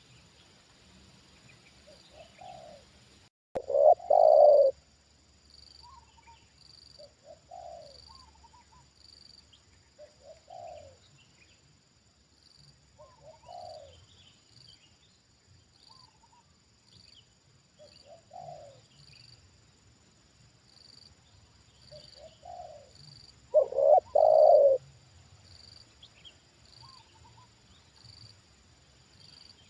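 Spotted doves cooing: a loud, close call of several notes about four seconds in and another near the end, with fainter answering coos every few seconds in between.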